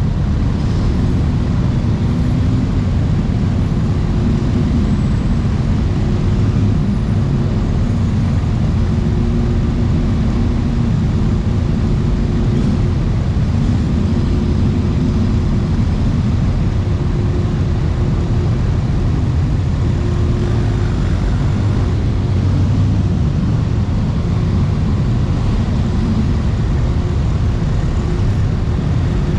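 Steady low engine rumble, even throughout with no revving, and a faint tone that comes and goes.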